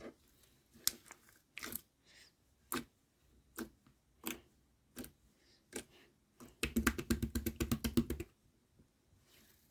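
Slime with pearl beads mixed in being pressed and poked by hand, giving separate sticky clicks and pops about once a second, then a fast crackling run of clicks for under two seconds near the end.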